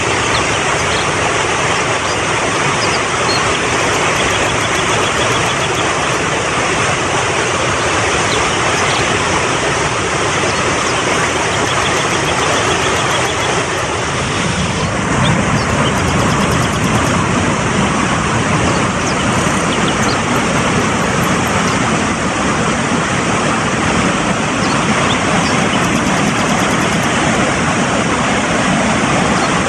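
Mountain stream rushing hard: a loud, steady rush of water that grows deeper and fuller about halfway through.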